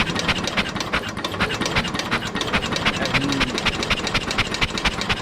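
Simplicity Landlord garden tractor's engine turned over by its electric starter with the spark plug out, a fast, even clatter, as a spark test after the ignition points were adjusted.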